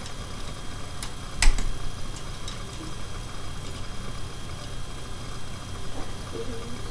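Scattered light clicks and taps of metal while a scooter bolt is tightened with an Allen key, with one sharp, louder click about a second and a half in.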